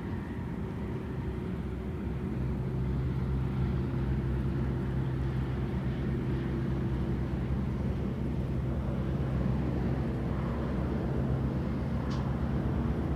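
Car driving with a steady engine hum and road noise, growing a little louder over the first few seconds as it gathers speed.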